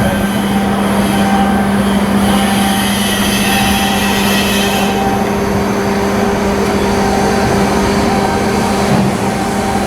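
Loud, steady machinery running with a constant hum and a continuous rushing noise over it.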